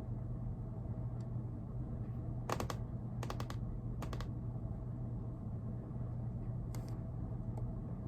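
Scattered clicks of computer keys being pressed: a pair, then a quick cluster, then two single clicks a few seconds apart, over a steady low hum.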